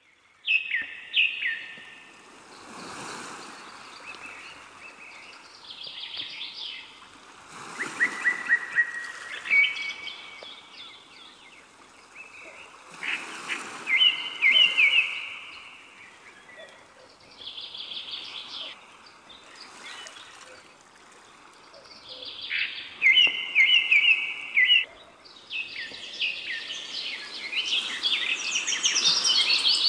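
Birds singing and chirping in short phrases of quick repeated notes over a soft rushing background; the song grows denser and higher-pitched near the end.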